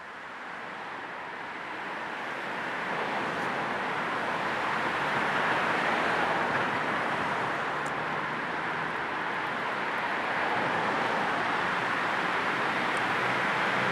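Steady road noise of a car ride, with a low white-noise hiss layered in. It fades up over the first few seconds and then holds even.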